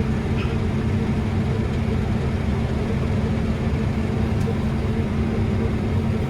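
Combine harvester running steadily while cutting wheat, heard from inside the cab as an even machine drone with a constant hum.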